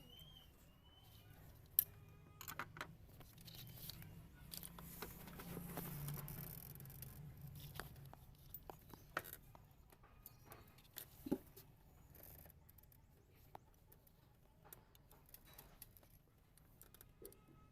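Faint scattered clicks and light metallic knocks of hand tools and engine parts being handled. The sharpest clicks come about 2 seconds in and again about 11 seconds in, with a soft rushing swell around the middle.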